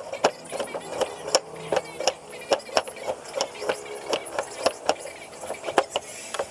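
Quick, uneven run of sharp knocks on wood, about three or four a second, as when a wooden pad is tapped or hammered onto a chair leg.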